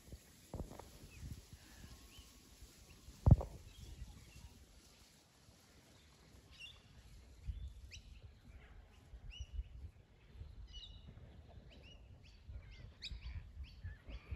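Small birds chirping: many short, quick calls from about six seconds in, over a low rumble. A single sharp thump about three seconds in is the loudest sound.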